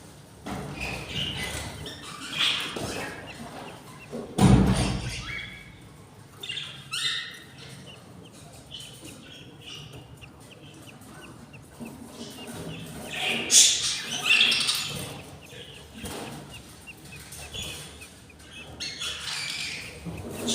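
Budgerigars chirping and squawking in short calls, with a loud low thump about four seconds in and a louder run of calls a little past halfway.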